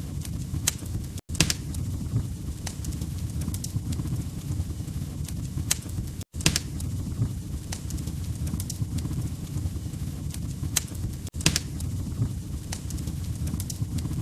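Wood fire burning in a fireplace: a steady low rumble with irregular sharp crackles and pops from the logs. The sound cuts out for a split second about every five seconds.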